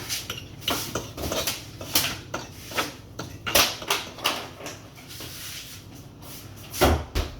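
Irregular sharp clicks and knocks, a few a second, with two heavier thumps close together near the end.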